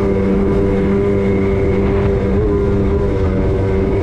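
Jet ski's swapped-in Kawasaki 650 two-stroke twin running under throttle at a steady pitch while underway, with wind and water rush.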